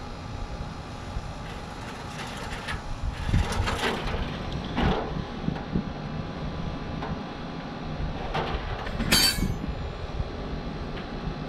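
Wrench and metal hydraulic fittings clinking and clanking as fittings are worked loose, a handful of sharp metallic knocks with the loudest about nine seconds in, over a steady background hum.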